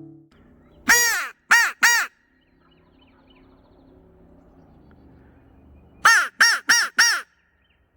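Crow cawing: three caws about a second in, then a quicker run of four caws near the end.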